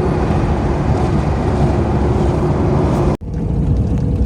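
Daewoo Matiz driving at speed on the highway: steady engine and road rumble. About three seconds in it breaks off for an instant and resumes slightly changed.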